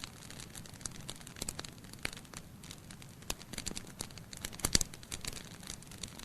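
Wood fire burning logs in a fireplace, crackling with irregular sharp pops over a low steady hiss; the loudest snap comes near the end.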